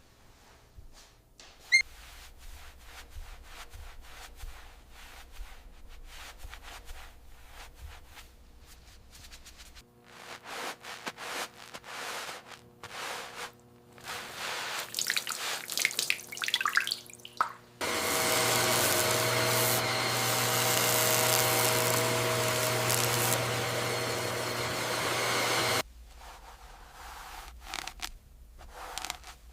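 Hand-work noises in a small room: scattered clicks, taps and rubbing. Past the middle, a steady loud machine noise with a hum runs for about eight seconds and cuts off suddenly.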